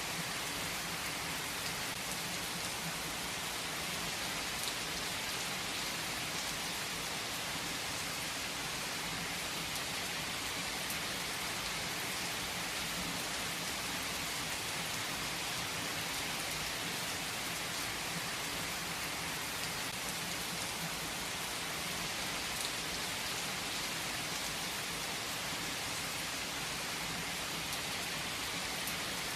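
Steady rainfall: an even hiss of rain on a surface, with faint scattered ticks of single drops.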